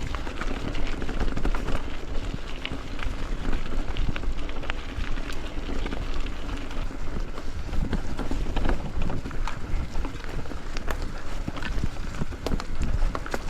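Bicycle riding over rough ground: a constant rumble of tyre and wind noise with frequent sharp clicks and rattles.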